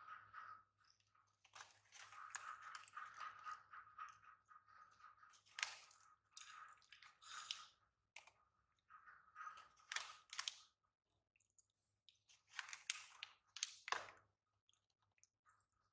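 Baby macaque crunching and chewing popcorn in short bursts with pauses between mouthfuls.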